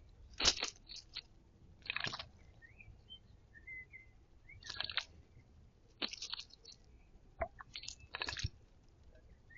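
A garden bird bathing in a shallow water bowl: about five short bursts of wing-splashing a second or two apart, with faint bird chirps between them.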